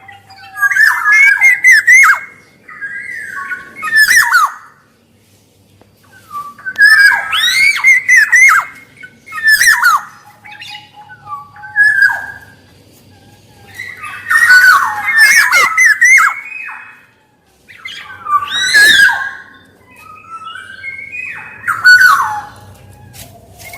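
Black-naped oriole (kepodang) calling in repeated bouts of harsh, squawky notes, each a second or two long, with short pauses between them.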